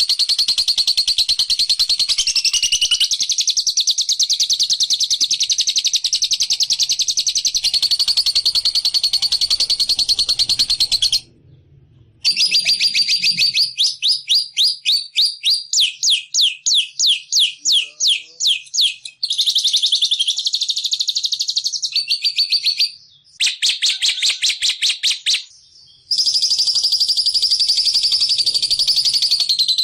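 Recorded bird song played as a trapping lure: long, shrill, high-pitched trills and fast runs of repeated notes, with a few abrupt cuts where the looped recording is spliced.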